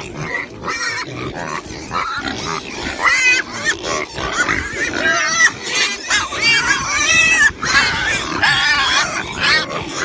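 A herd of pigs crowding close, grunting and squealing, with many calls overlapping. The calls grow denser and louder about three seconds in.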